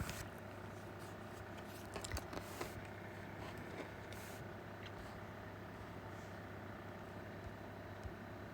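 A few short, faint scratching strokes of drawing, about two seconds in and again near four seconds, over a steady low electrical hum.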